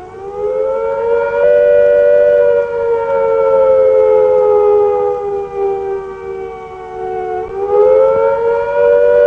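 Civil defence air-raid siren sounding the rising and falling attack-warning note, the signal that a nuclear attack is expected. Its pitch rises, sinks slowly for several seconds, then rises again near the end.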